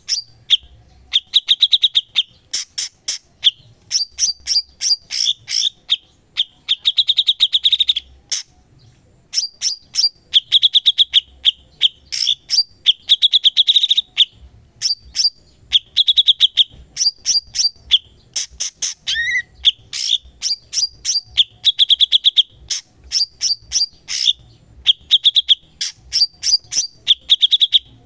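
A cucak cungkok singing continuously in full song. Its fast, high, trilled phrases alternate with quick runs of sharp repeated notes, a new phrase coming every second or two.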